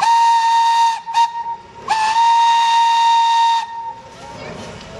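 Locomotive steam whistle blowing at one steady pitch over a hiss. One blast ends about a second in, a brief toot follows, then a long blast of about a second and a half.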